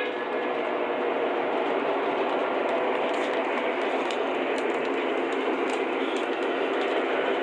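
Lionel model freight train running along its track: a steady, even rumble and rattle of wheels on rail, with a few faint clicks.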